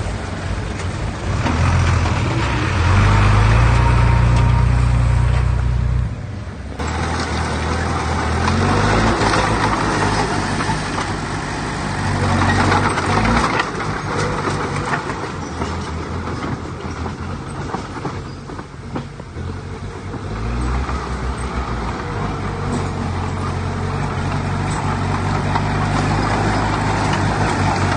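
Heavy diesel earthmoving machinery running under changing load, the engine note swelling and easing several times; it is loudest for a few seconds early on and drops suddenly about six seconds in.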